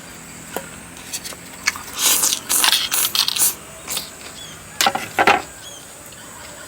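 Close-up eating sounds of noodles and chicken feet: a few small clicks, then bursts of noisy chewing and mouth sounds about two seconds in and again near five seconds.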